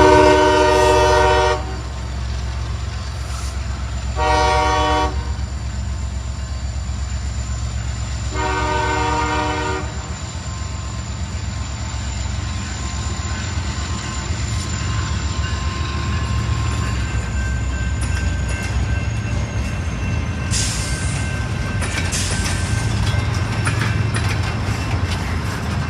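Train horn sounding a long, a short and a long blast over the steady low rumble of a passing train; after the last blast the train keeps rumbling by.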